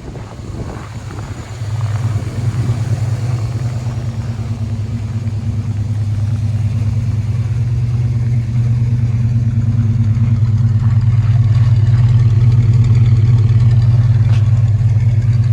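1968 Dodge Charger's big-block V8 running at a steady pace under load, a deep even drone that grows gradually louder.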